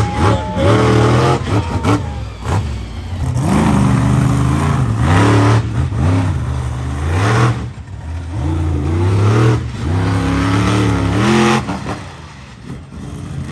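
Monster truck engine revving hard again and again, its pitch climbing and dropping through about five revs, then easing off near the end.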